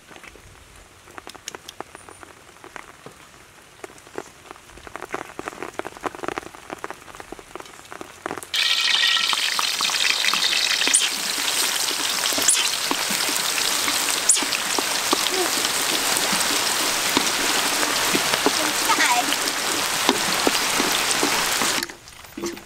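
Food deep-frying in hot oil: a loud, dense sizzle that starts suddenly about eight seconds in and cuts off sharply near the end. Before it, lighter scattered crackling and popping.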